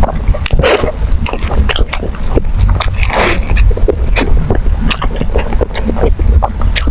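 Close-miked eating sounds: chewing and biting food, with many short clicks and crackles over a steady low rumble.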